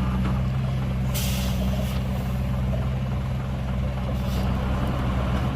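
Heavy diesel engine of earthmoving equipment running steadily at a low, even pitch. A burst of hissing comes about a second in and lasts about a second, with a shorter, fainter hiss near four seconds.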